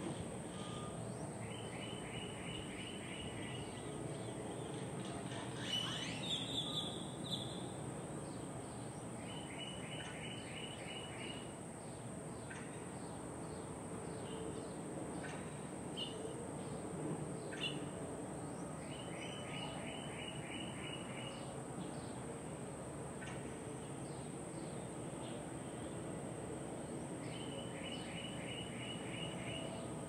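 Birdsong: one bird repeats a short, even trill of rapid notes four times, about every eight seconds, with a louder burst of chirps between the first two trills and a few single chirps. Under it is a steady low background hum.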